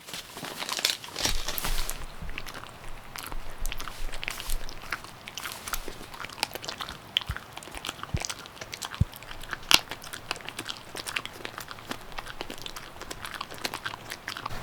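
A dog crunching and chewing a hard treat, with many crisp, irregular crunches.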